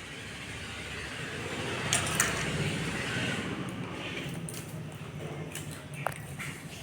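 Hands mixing raw prawns with salt, turmeric and chilli powder in a bowl: soft wet squishing, with a couple of sharp clicks about two seconds in.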